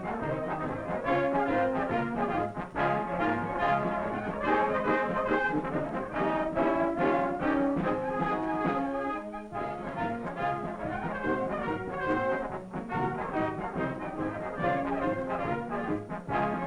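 Brass band music in circus style, with trombones and trumpets playing short lively notes over a regular oom-pah bass. There is a brief break about nine seconds in.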